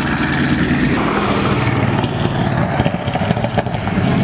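Car engine running at a steady, low-pitched note with little change in revs.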